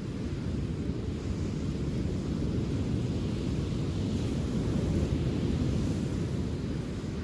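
Surf and wind on a sandy beach: a steady low rumble, with a wave washing in and hissing louder from about three to six seconds in.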